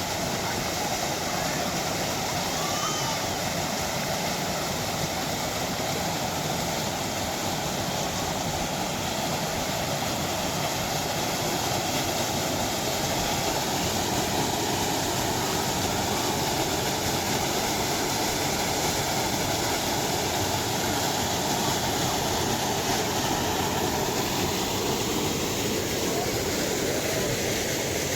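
Steady rush of flowing spring water, an even continuous noise.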